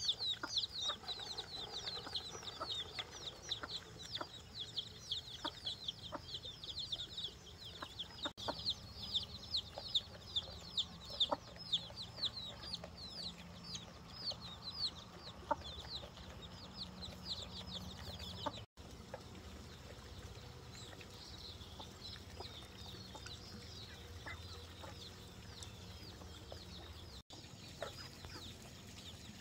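Chickens cheeping: many short, high, downward-sliding calls in quick succession, fading to fewer and fainter calls about two-thirds of the way through. Occasional light clicks or knocks sound alongside.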